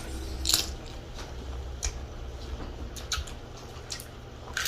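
Close-up eating sounds: a handful of sharp, wet mouth clicks and smacks of chewing, spread unevenly, over a low steady hum.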